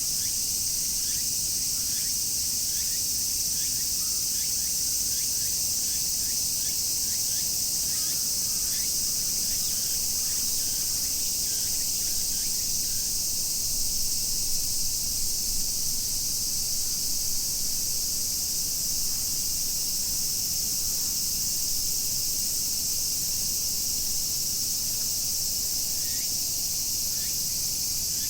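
Dense chorus of summer cicadas: a steady, high-pitched, unbroken drone. Short, lower, falling chirps are scattered over it for the first dozen seconds and again near the end.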